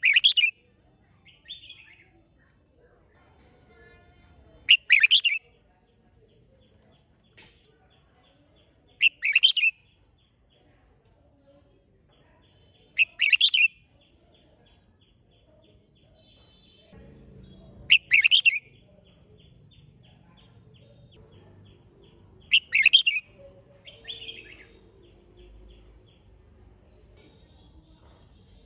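Red-whiskered bulbul singing short, loud, whistled song phrases about every four to five seconds, with fainter notes between them.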